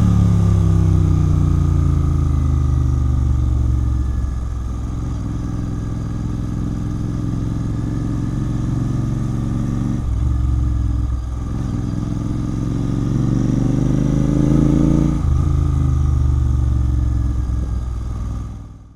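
Royal Enfield Continental GT 650's parallel-twin engine running through a Red Rooster aftermarket exhaust on the road. The engine note falls as it eases off over the first few seconds, climbs again from about eleven seconds in, drops sharply near fifteen seconds, then runs steady until it fades out at the end.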